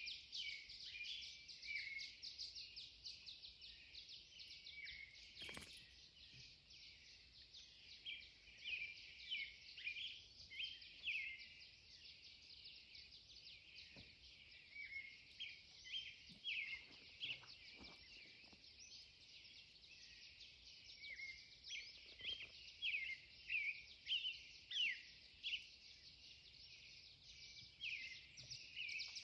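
Pre-dawn chorus of songbirds: many short, high, quick chirps and song phrases, densest toward the end, over a faint steady high hiss.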